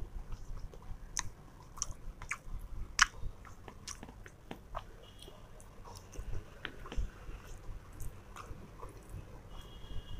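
A person eating veg fried rice with paneer masala by hand, chewing close to the microphone. The chewing comes with many irregular sharp, wet clicks and smacks of the mouth.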